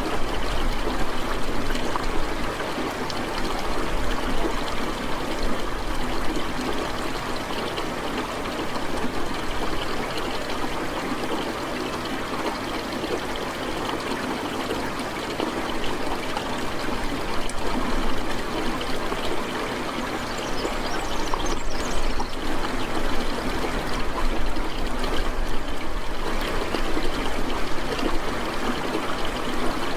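Steady rain with trickling, running water, a continuous even hiss with small swells in loudness.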